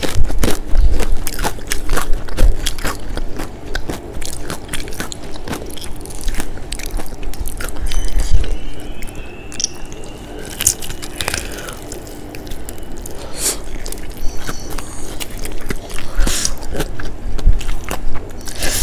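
Crispy McDonald's fried chicken being torn apart by hand, bitten into and chewed: dense crackling crunches of the fried coating, thickest in the first few seconds, with wet chewing between bites.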